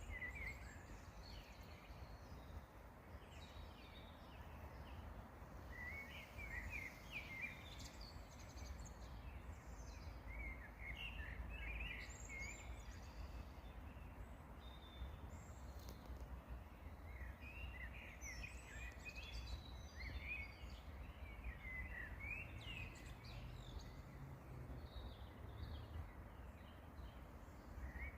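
Songbirds singing in short bursts of quick chirps every few seconds, over a steady low rumble.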